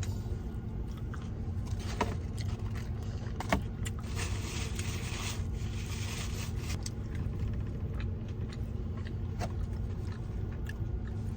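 Steady low rumble, like a car cabin with the engine idling, with a few small clicks and a brief rustle about four seconds in, typical of food and wrapper handling while eating.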